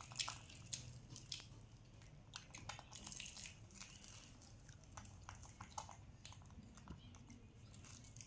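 Faint, irregular crunching and chewing of crispy fried corn spring rolls being eaten.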